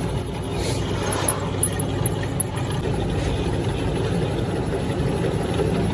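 Workshop machinery running with a steady low hum, with a brief hiss about a second in.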